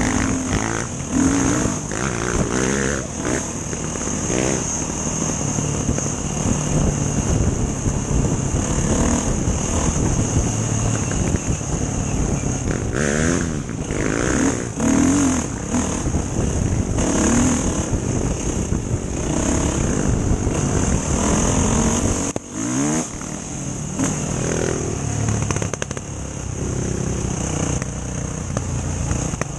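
Enduro motorcycle engine running while being ridden, its revs rising and falling with several quick rev sweeps, over a steady rushing noise.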